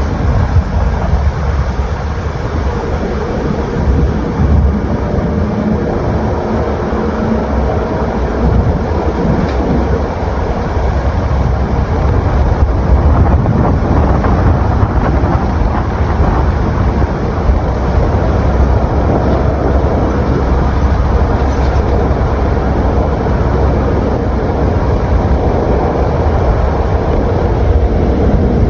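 Steady, loud rumbling noise of a vehicle in motion, heaviest in the low end.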